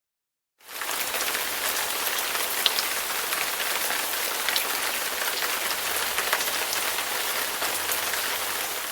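Hard rain pouring steadily onto a surface: a dense, even hiss with scattered individual drop splats, starting about half a second in.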